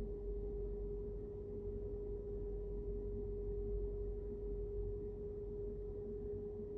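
Steady low rumble of a car on the road, with a single steady tone held over it the whole time.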